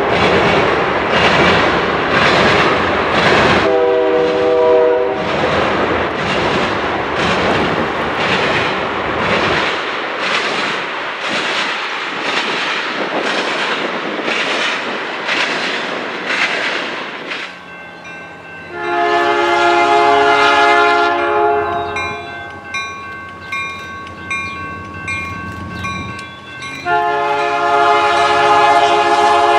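A train passing close by, its wheels clattering in an even rhythm of a little over one beat a second. A diesel locomotive's multi-chime air horn gives a short chord about four seconds in. Later the horn sounds longer chords, at about 19 seconds and again from about 27 seconds.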